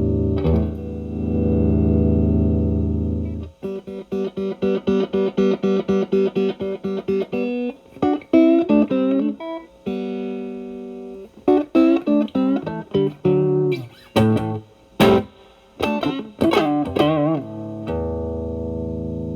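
Electric guitar, a Stratocaster driven through an Xotic BB Plus preamp's Channel B overdrive into a Marshall Valvestate amp, playing blues phrases. A held chord rings out, then quick runs of picked notes, then single-note licks with a note shaken in vibrato, ending on another held chord.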